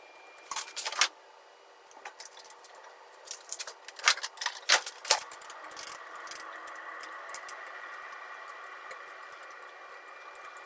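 Wooden chopsticks clicking and tapping against a ceramic dish while turning mackerel pieces in a marinade, in a few quick clusters about half a second in and again around four to five seconds in. A faint steady hum comes in about five and a half seconds in.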